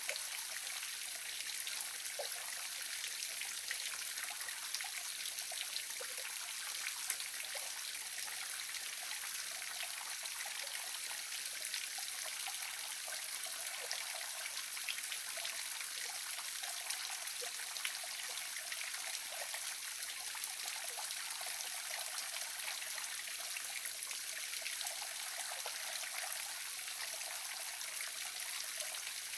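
Small waterfall splashing and trickling steadily, a light, even rush of falling water with fine patters of drops and no deep rumble.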